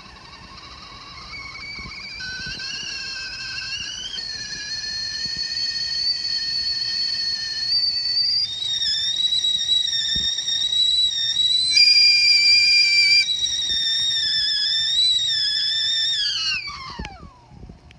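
Copper stovetop whistling kettle coming to the boil: its whistle grows from a faint wavering tone into a loud, high whistle of several pitches at once. Near the end it glides sharply down in pitch and dies away.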